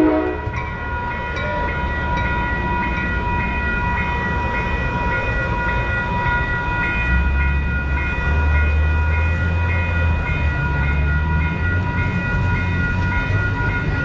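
Train passing close by: a horn blast cuts off at the very start, then a loud steady low rumble that grows heavier about halfway through, with a high ringing tone pulsing about twice a second throughout.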